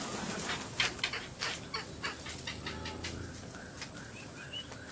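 Flock of wild birds calling as they gather to be fed, calls that alert the rest of the flock. A run of short sharp taps or wingbeats comes in the first two seconds, and short high chirps come near the end.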